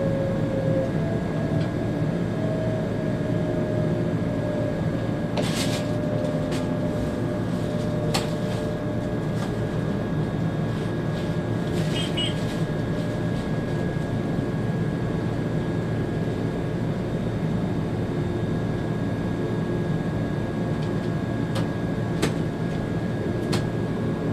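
An ÖBB Railjet high-speed train running, heard from the driver's cab: a steady rumble and hum with a few fixed whining tones, one of which slides slowly down in pitch over the first few seconds. A few sharp clicks and knocks break in now and then.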